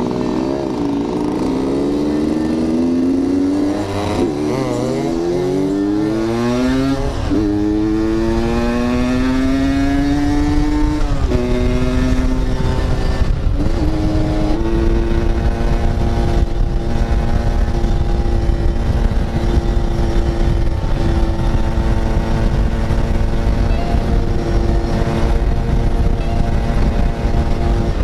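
Yamaha RX-King's two-stroke single-cylinder engine accelerating through the gears, rising in pitch in each gear with shifts about 4, 7, 11 and 13 seconds in, then holding a steady cruise. A low rumble of wind on the microphone runs beneath it.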